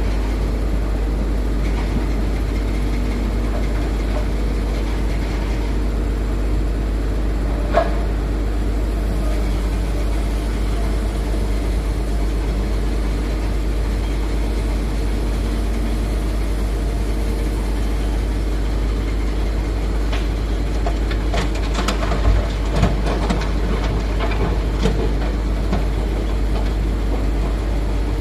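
Heavy diesel engines of an excavator and dump truck running steadily during loading. A sharp knock comes once about a third of the way in, and a cluster of clanks and rattles comes in the last third.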